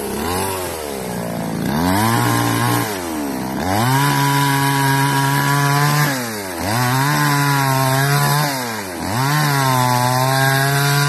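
Huyosen two-stroke chainsaw revved to full throttle in four bursts of about two seconds each, dropping back toward idle between them, while cutting wood.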